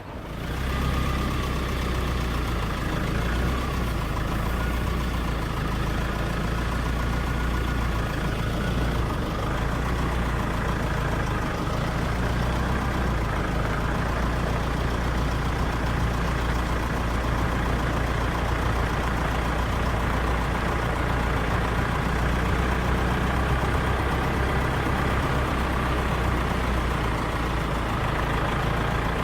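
Engine of a game-drive vehicle running steadily, a low even drone.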